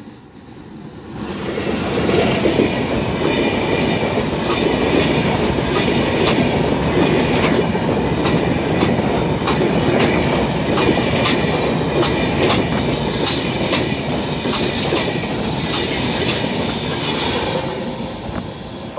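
Diesel-hauled passenger train passing close by, the coaches rumbling and their wheels clicking over the rail joints. It builds up over the first two seconds and eases off near the end.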